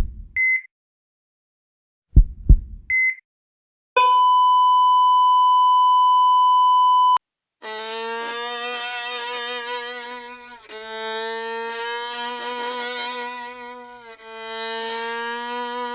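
Two heartbeat-like low thumps, each with a short electronic blip, then a steady high beep lasting about three seconds like a monitor flatline. About seven seconds in, sustained string music starts, with held chords that change twice.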